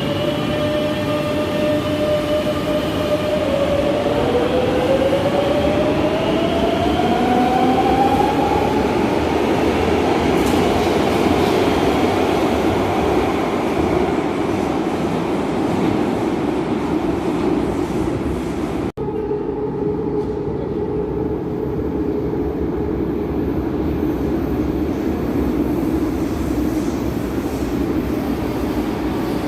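Madrid Metro electric train running, its electric whine climbing steadily in pitch as it picks up speed over the rumble of wheels on track. About two-thirds through, the sound cuts abruptly to another stretch of train running at a steady speed.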